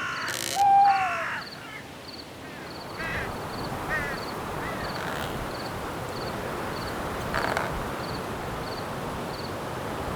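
Crickets chirping steadily, about three chirps a second, over wind noise. In the first second and a half there is a loud cluster of harsh, cawing bird calls with a falling hoot-like call. A few fainter bird calls follow around three to four seconds in and again near the end.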